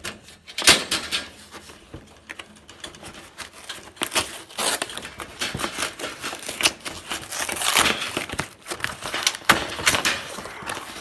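Irregular rustling, crinkling and clicking as firework packaging and rocket boxes are handled up close.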